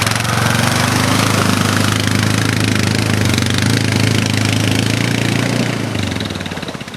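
ATV engine running at a steady speed, its level dropping about six seconds in.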